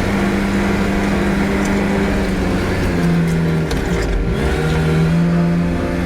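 Kubota L6060 tractor's diesel engine running steadily at working speed. Its note wavers and dips briefly about four seconds in, then settles back.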